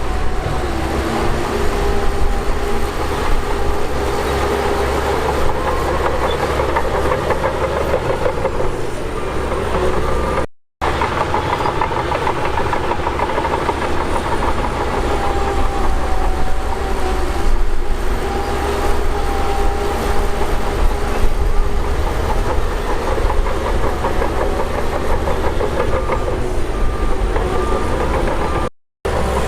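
Heavy earthmoving machine's diesel engine working under load, its pitch rising and falling, with a steady metallic clatter. The sound cuts out briefly twice.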